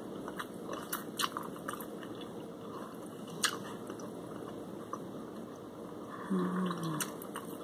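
Mouth sounds of a person biting and chewing breaded fried shrimp: soft crunches and wet clicks, most of them in the first two seconds, with a short hummed voice sound a little after six seconds in.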